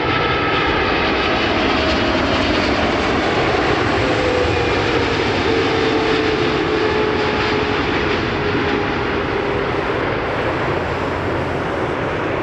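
Passenger jet airliner passing close on approach to land, a loud steady jet roar with a whining tone that falls slowly in pitch as it goes by, easing a little near the end.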